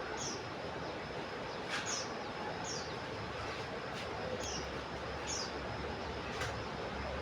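Common iora (cipoh) calling: short, high chirps that slide downward, repeated about once a second, over a steady hiss, with a few sharp clicks.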